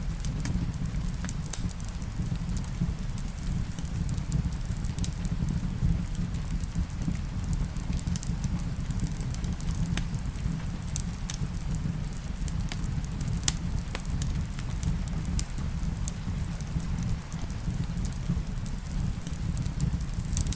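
Wood fire crackling in a fireplace: scattered sharp pops over a steady low rumble, with rain on a roof.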